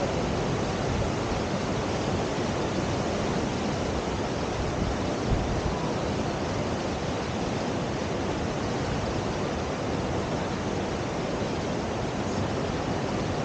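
Steady rush of river water pouring through a standing surf wave, with a single brief thump about five seconds in.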